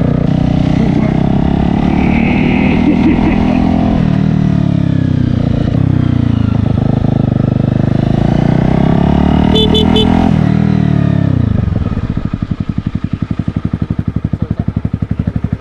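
Honda CBR250 motorcycle engine pulling away, its pitch rising, dipping about four seconds in, then rising again. About eleven seconds in it winds down and settles to an evenly pulsing idle.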